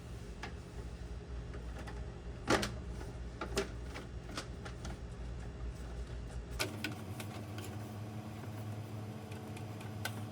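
Irregular clicks and light knocks of hands handling parts, over a steady low hum. The sharpest knock comes about two and a half seconds in.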